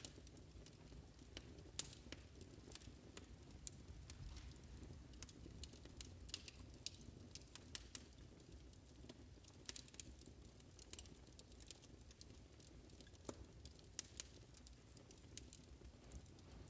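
Fireplace crackling faintly: irregular sharp pops and snaps over a low, steady rumble of the fire.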